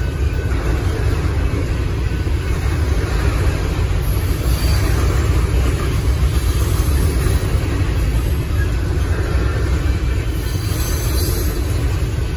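Covered hopper cars of a Union Pacific freight grain train rolling past a grade crossing, a steady low rumble of steel wheels on the rails.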